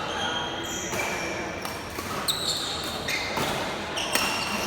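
Sports shoes squeaking repeatedly on a badminton court floor during a rally, in short high-pitched squeaks, with several sharp smacks of rackets hitting the shuttlecock echoing in the hall.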